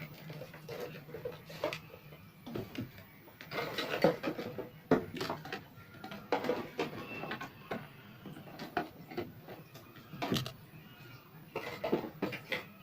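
Irregular light knocks and clicks, with no motor running.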